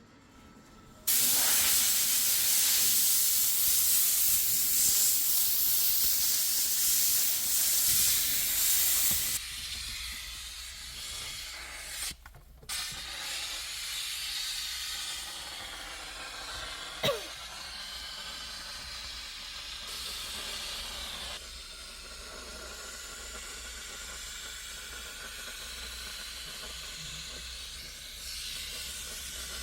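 A hand-held cleaning jet hissing during engine-bay detailing: loud from about a second in, then quieter after about nine seconds, with a couple of brief breaks.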